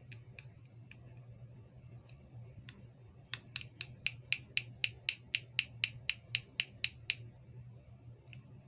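A few scattered sharp clicks, then a rapid, evenly spaced run of about sixteen louder clicks at roughly four a second, from small plastic toy accessories being clicked or snapped by hand.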